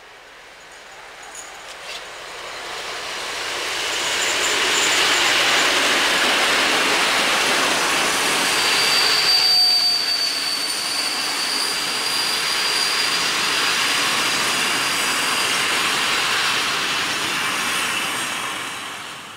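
A passenger train hauled by an SU45 diesel locomotive approaches and passes close by: the locomotive and the rolling of wheels on rail build over the first few seconds into a loud steady rush as the coaches go by. A thin, high wheel squeal rings out for a few seconds about halfway through. The sound falls away near the end.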